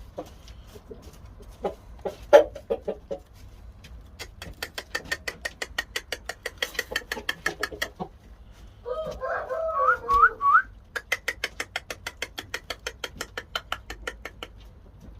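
Shamo chickens clucking: long runs of short, sharp clucks at about six a second, broken near the middle by one short call that rises in pitch.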